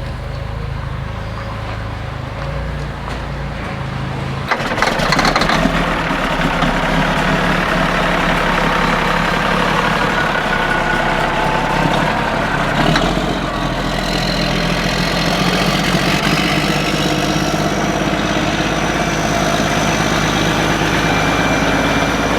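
Heavy diesel engine running. About four and a half seconds in it suddenly gets louder and stays there, and later a faint high whine slowly rises.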